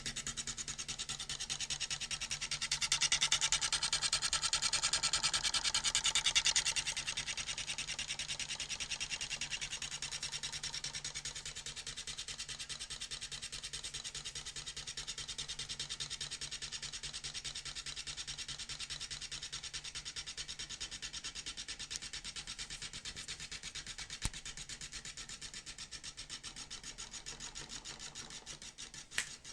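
Small brushed electric motor running with a fast, even rasping buzz. It is louder for a few seconds from about three seconds in, then settles and slowly fades, with a single click near the end.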